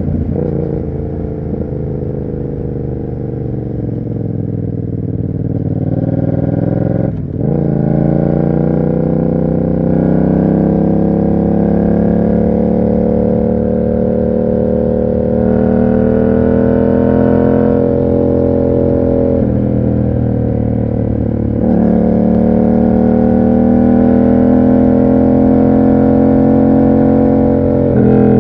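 Yamaha MT-07's parallel-twin engine through an aftermarket SC Project exhaust, pulling under steady throttle with its note rising slowly over long stretches. A brief throttle cut about seven seconds in drops the note sharply before it climbs again.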